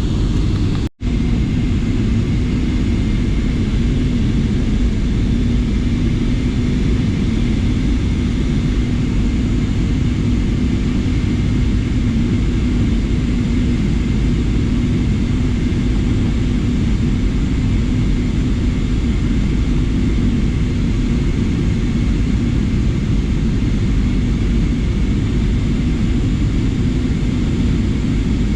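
Steady drone of an airliner's engines and rushing air heard inside the passenger cabin, with a low hum under it. The sound drops out for a moment about a second in.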